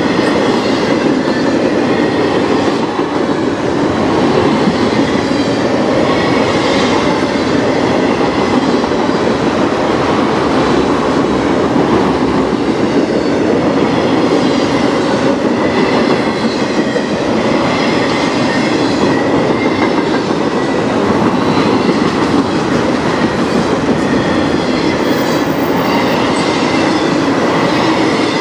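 CN freight train of enclosed autorack cars rolling past: a steady, loud rush of steel wheels on rail, with a faint high wheel squeal now and then.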